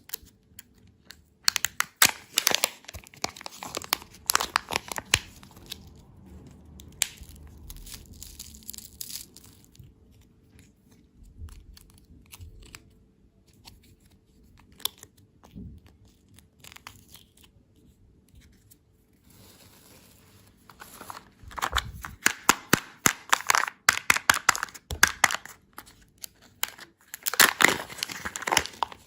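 Candy packaging being crinkled and torn open by hand in close-up, in a few spells of dense crackling, with a quieter stretch in the middle and the longest spell in the second half.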